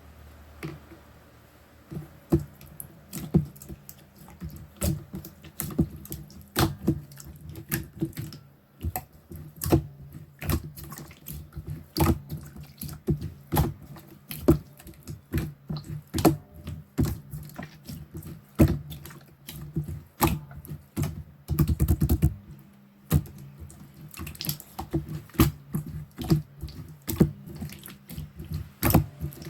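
Clear slime being squished and pressed by hands, with irregular sharp clicks and pops of trapped air, several a second.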